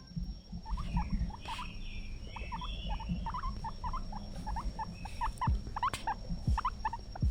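Guinea pig squeaking in its cage: a rapid run of short, high squeaks, several a second, starting just under a second in, over low rustling and knocking.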